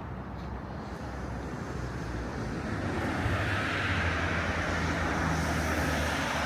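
A motor vehicle passing close on a city street: a low engine rumble with tyre and road noise that swells from about halfway in and stays loud near the end.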